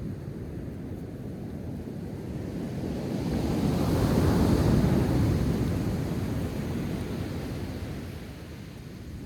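Ocean waves on the shore: one wave swells to its loudest about four seconds in and washes back out, over a steady surf wash.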